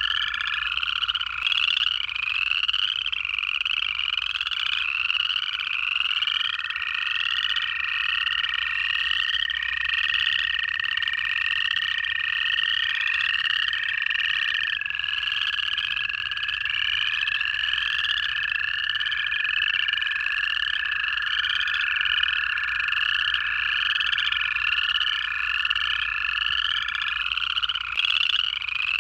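Pond chorus of upland chorus frogs: many overlapping short rising trills, repeated over and over. Under them, American toads give long, steady, even-pitched trills, each held for many seconds, one after another.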